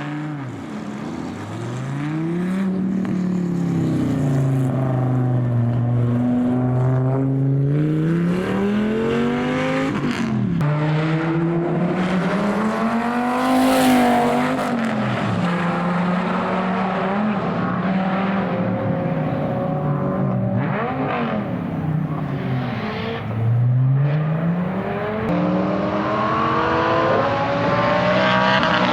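Dodge Viper's V10 engine running hard on a tarmac stage, its pitch repeatedly climbing under acceleration and dropping back as the driver lifts or changes gear.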